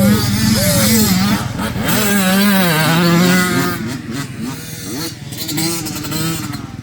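Dirt bike engine revving up and down through its gears. It is loud for the first few seconds, then fades as the bike moves away.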